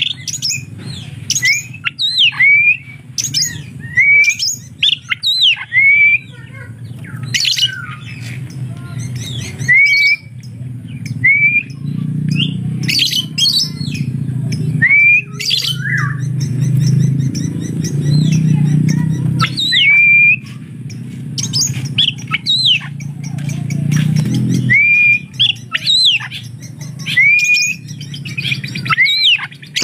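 Oriental magpie-robin singing a long run of short, hooked whistles about once a second, mixed with sharp squeaky notes like a lovebird's, part of its mimicked repertoire. A low hum runs underneath, stronger through the middle.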